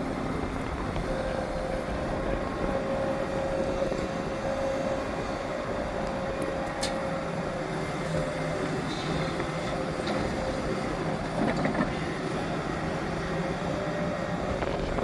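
Hidromek 410LC excavator's diesel engine and hydraulics running steadily under work, with a steady whine over the engine noise. A brief louder rumble comes about two-thirds through.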